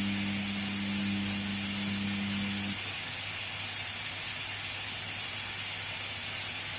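Washing machine running a wash cycle: a steady watery hiss over a low hum, with the drum motor's hum stopping a little under three seconds in.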